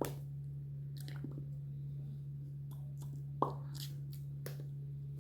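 Steady low electrical hum with a few sharp clicks and smacks scattered over it. The loudest click comes about three and a half seconds in.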